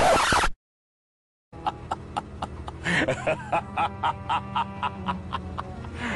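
The tail of one sound effect cuts off after half a second. After a second of dead silence, a rhythmic musical clip starts, with sharp clicks about three times a second over steady low tones.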